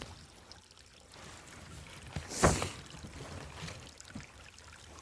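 Small mountain stream trickling steadily over rocks. About halfway through comes one brief, loud burst of noise, much louder than the water.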